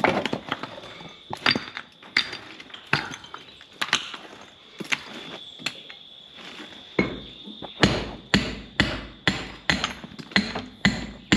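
Hammer blows on construction formwork: irregular strikes at first, then from about seven seconds in a steady run of louder blows, about two a second, as nails are driven home.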